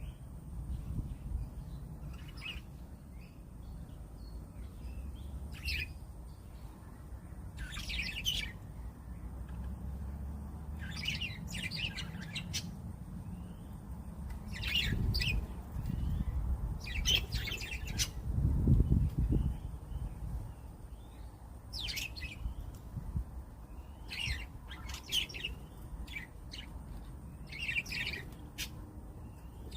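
Budgerigars chirping in short, scattered bursts of quick high twitters, over a steady low rumble that swells around the middle.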